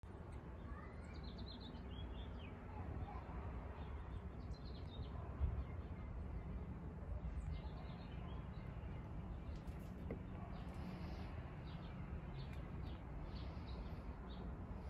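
Birds chirping in short, repeated calls over a low steady outdoor rumble.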